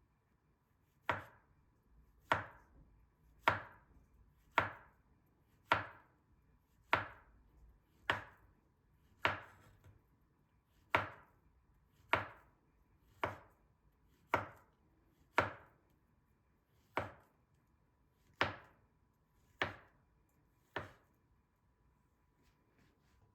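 Knife chopping on a cutting board: single slow, evenly paced chops, about one a second, some seventeen in all.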